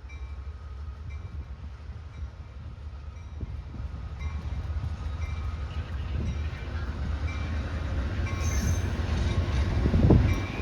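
Approaching train, its low rumble building steadily and loudest near the end. A short high tone repeats about once a second throughout.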